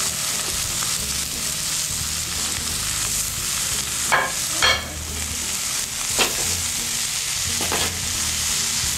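Vegetables sizzling steadily as they fry in oil in a hot wok, with a few sharp clinks of a metal ladle against the wok about halfway through.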